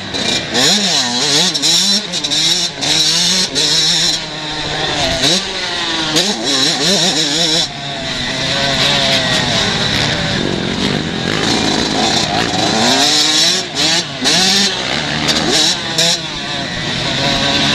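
Motocross bikes of the 125cc class racing, engines revving up and down repeatedly as riders open and shut the throttle, several bikes overlapping.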